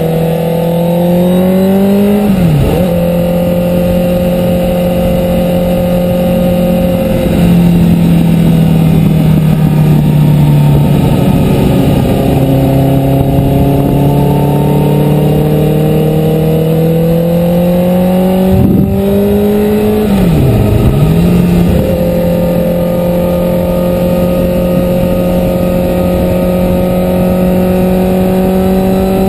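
Sport motorcycle engine heard from on board while riding, its note holding steady and slowly climbing, with sharp drops in pitch that recover, about two seconds in and again about twenty seconds in, as the rider works the throttle and gears. Wind rush rides under the engine throughout.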